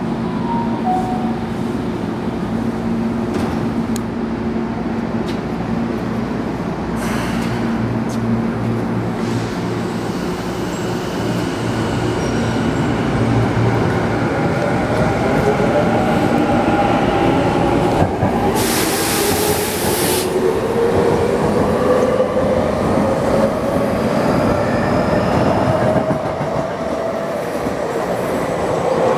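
Electric commuter train at a station, first humming steadily while stopped, then pulling out: its traction motors' inverter whine rises in pitch as it accelerates, over wheel rumble on the rails. A short hiss comes about two-thirds of the way through.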